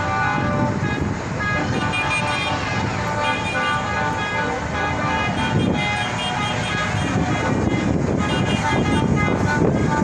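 Tractors driving past with engines running and horns sounding in held toots at several different pitches.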